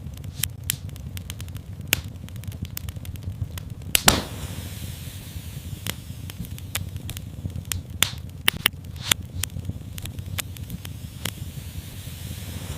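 Wood fire crackling in a fireplace: irregular pops and snaps over a steady low rumble, with a louder pop about four seconds in followed by a brief hiss.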